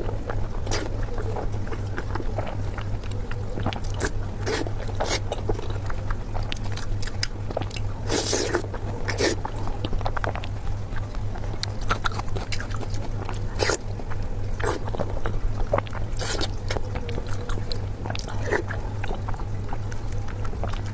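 Close-miked chewing and biting of food: many short, sharp mouth clicks and crunches at irregular intervals, over a steady low hum.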